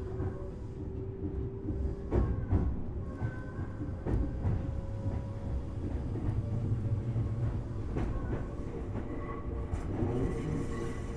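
Tobu Railway Series 6050 electric train, heard from inside resistor-controlled motor car MOHA6172, running at speed with a steady low rumble and a faint steady hum. The wheels knock over rail joints now and then.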